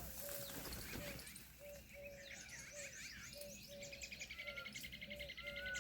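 Several birds calling at once: a short low note repeated about twice a second, with scattered higher chirps, and a fast, even trill that joins a little before halfway through.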